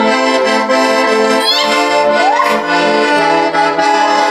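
Accordion playing an instrumental passage of a Russian folk-style song: sustained chords with a moving melody line, between sung verses.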